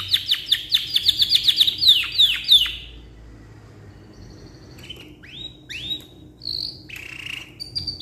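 Canary singing: a fast run of repeated downward-sweeping whistled notes that stops about three seconds in, then after a short pause a few separate rising chirps and short notes.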